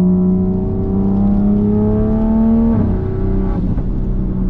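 MK5 Toyota Supra's B58 turbocharged inline-six, fitted with a big turbo, accelerating: the engine note rises steadily for nearly three seconds, then drops suddenly at a gear change and runs on at lower, steadier revs.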